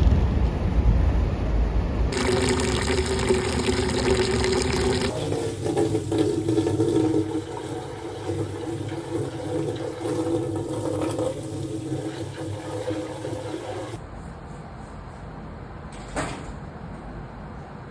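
Rushing, splashing water, in a few short segments that change abruptly from one to the next, with a sharp click near the end.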